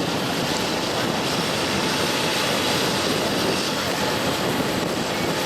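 Farm tractor's diesel engine running loud and steady at high revs.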